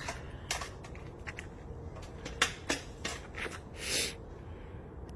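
Scattered light clicks and metallic knocks of parts and tools being handled while the DPF assembly is refitted, with a brief rushing hiss about four seconds in.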